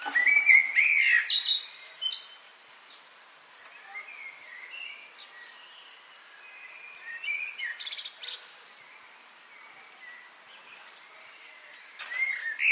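Small songbirds chirping and singing, many quick rising and falling calls. A loud flurry comes at the start, then a quieter stretch with scattered calls, and another loud flurry near the end.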